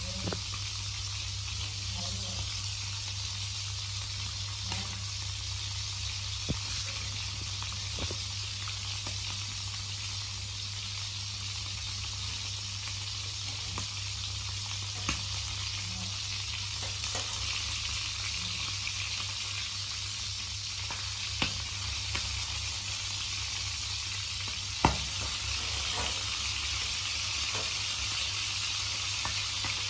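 Whole frogs frying in oil in a steel wok: a steady sizzle with a few sharp clicks and pops scattered through it.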